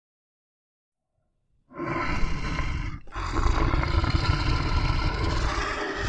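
Silence for about the first second and a half, then a bear growling and roaring, with a short break about three seconds in.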